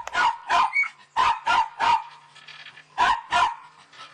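A dog barking: seven short barks in three groups, two, then three, then two.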